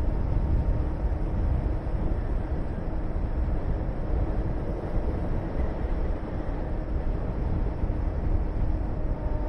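Honda VTR250's V-twin engine running at a steady speed under a heavy rush of riding wind on the microphone.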